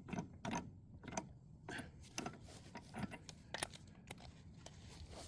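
Scattered light clicks and knocks of hand tools and metal car parts being handled, irregular and fairly faint.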